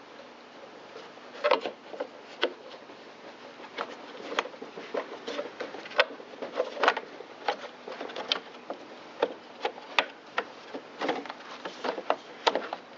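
Irregular clicks, taps and knocks of a Stihl BR600 backpack blower's engine cover being handled and fitted onto the blower housing, with a few sharper knocks among them.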